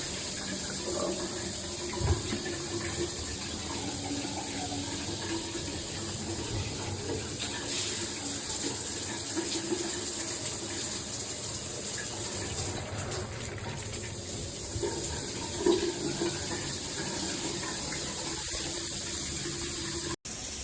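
Shower water spraying steadily from a G-Promise all-metal shower head and falling in the stall, with a couple of brief knocks; the sound cuts off abruptly near the end.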